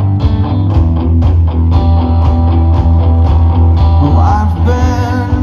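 Live rock band playing an instrumental passage of a song: guitar over heavy bass and a steady drum beat of about two hits a second. A bending pitched line comes in near the end.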